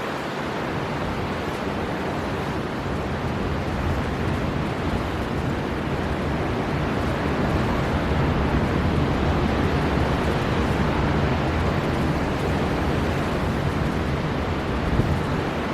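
Storm wind blowing hard over the sea with surf rushing, a dense steady rush heaviest in the low end that swells gradually over the first half and then holds.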